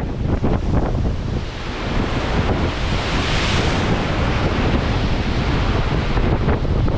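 Strong wind buffeting the microphone over the rush of large storm waves along a ship's side, with a swell of hissing spray about halfway through.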